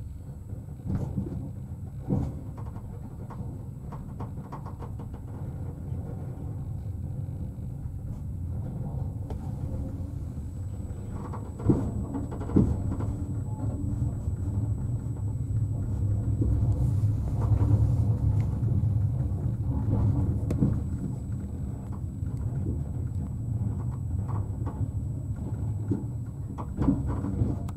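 Inside a passenger train carriage pulling away from a station: a low running rumble that grows louder as the train gathers speed, with scattered knocks and clacks.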